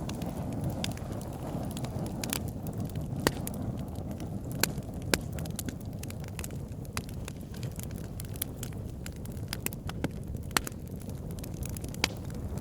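Campfire crackling: irregular sharp pops and snaps from the burning wood over a steady low rumble, with a few louder pops about three, five and twelve seconds in.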